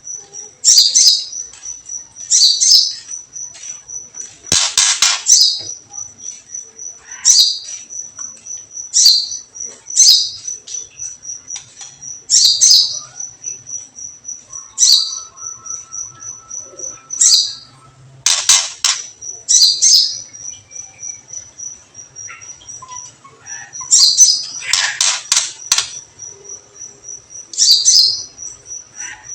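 Songbird calls: a fast, high-pitched ticking trill runs without a break while loud, harsh chattering chirps break in every one to three seconds, thickest about 25 seconds in. A thin, lower steady whistle sounds for about two seconds around the middle. These are 'kretekan' ticking calls and whistles, used to rouse a caged songbird into singing.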